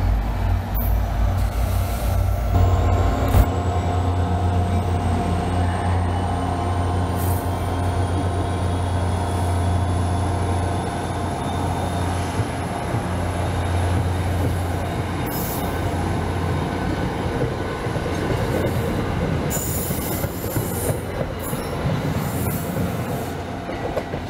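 A diesel-hauled commuter train passing: a steady low engine drone, wheels clicking now and then over rail joints, and a thin high whine that rises slowly.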